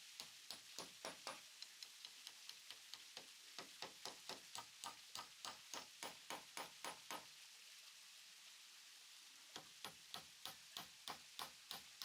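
Quick, even taps of a hand tool striking wood, about three a second, stopping for about two seconds just past the middle before starting again.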